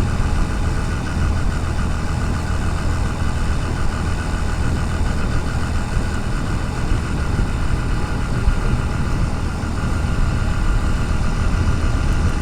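Motorcycle engine running steadily while riding, with an even rush of road and wind noise over it.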